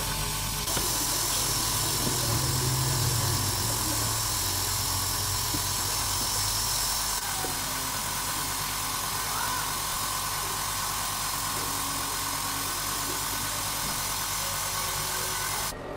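A motor running steadily. Its sound changes abruptly about a second in and again about seven seconds in, then cuts off just before the end.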